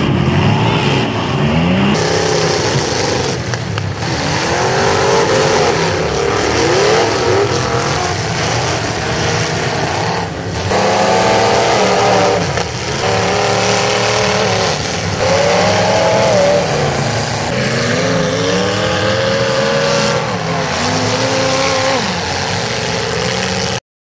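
Several demolition derby cars' engines revving hard at once, their pitches rising and falling as the drivers floor and lift, with a few sharp crashes as cars hit each other. The sound cuts off suddenly near the end.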